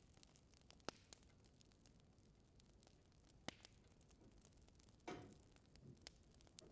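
Wood burning in an indoor fireplace, crackling faintly: irregular sharp pops and ticks over a low steady hiss, with a longer, louder crackle about five seconds in.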